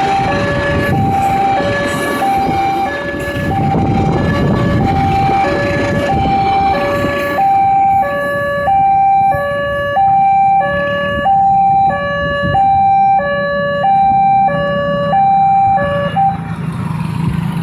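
Railway level-crossing warning alarm sounding two alternating electronic tones, high and low, about every half second, at first over the rumble of a passing train. The rumble fades about halfway through, leaving the alarm alone until it cuts off near the end.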